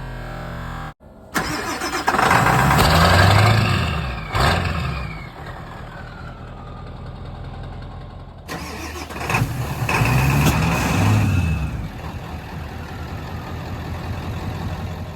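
A vehicle engine started and revved in two takes. Each time the pitch climbs, a high whine slides down as it drops back, and it then settles into steady running.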